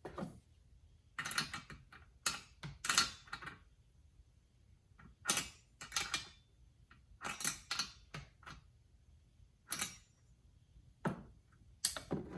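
Hand tools and parts being handled on a chainsaw during spark plug removal: irregular clusters of sharp clicks, taps and rattles, about eight groups over the stretch.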